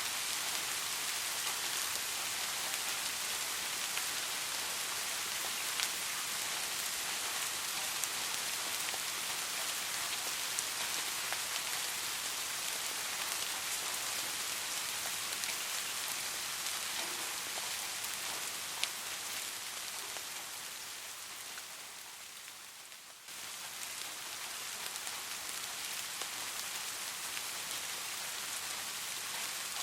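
Soft, steady rain: a dense, even patter of drops. About three-quarters of the way through it fades a little quieter, then comes back suddenly at full level.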